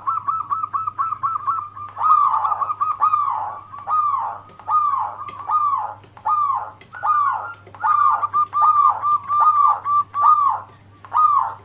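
Zebra dove (perkutut) singing: a quick run of short, rapid coos, then a steady string of longer arching coos, each rising and falling in pitch. This is the dove's full cooing song (manggung) used as a lure call.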